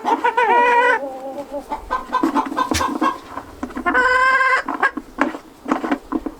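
Chickens clucking steadily, with a longer squawk falling in pitch in the first second and another drawn-out call about four seconds in.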